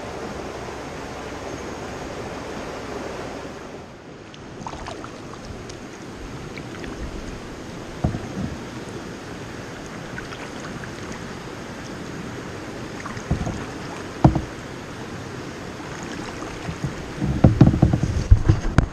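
Steady rush of a stream tumbling down rapids in a rocky gorge. A few sharp knocks come through it, and near the end a loud bout of low thumps.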